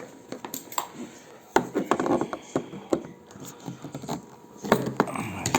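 Unpacking and handling noises: scattered clicks, knocks and rustling as a zip-tied item in a hard plastic tool case is freed. The noises are busiest about a second and a half in and again near the end.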